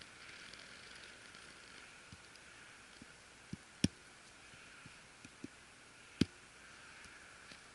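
Small campfire of damp wood that has just caught, hissing faintly and crackling with a few sharp pops, two of them louder than the rest.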